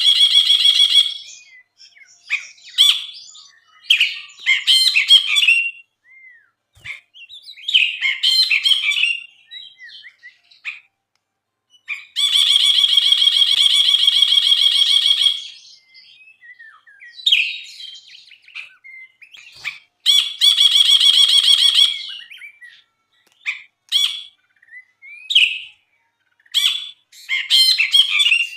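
A brinji bulbul singing vigorously: bursts of high chirps and short whistled phrases, broken by long, rapid, buzzy trills lasting a few seconds each, one in the middle and others later on.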